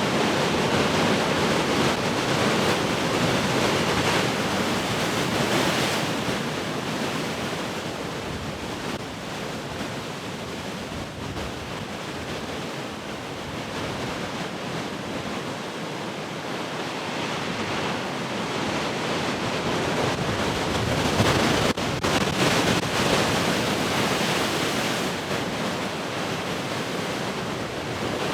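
Large ocean waves breaking and washing in as steady surf, swelling loudest near the start and again a little after the middle, with wind on the microphone.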